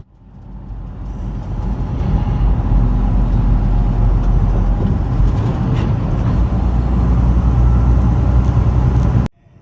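Semi truck's diesel engine running with road noise while driving, a steady low rumble that builds over the first couple of seconds and cuts off abruptly just before the end.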